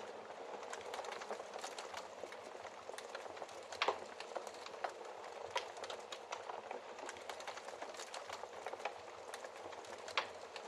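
Fireplace fire crackling: a steady hiss with scattered sharp pops. A louder pop comes about four seconds in and another near the end.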